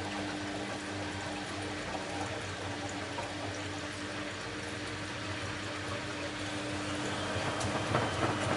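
Bosch Maxx WFL 248Y washing machine with water running through it over a steady low hum, getting a little louder near the end.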